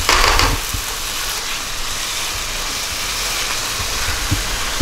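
Tomato-paste stew base for jollof rice sizzling in oil in a pot as it is stirred with a silicone spatula, with a louder burst of sizzling in the first half second.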